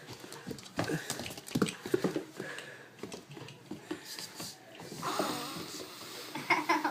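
A lab–beagle mix puppy playing rough, with scuffling and irregular clicks and knocks, and a couple of louder rustling bursts near the end.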